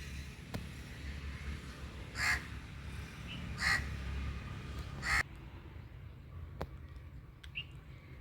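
A crow cawing three times, about a second and a half apart, over a steady low rumble.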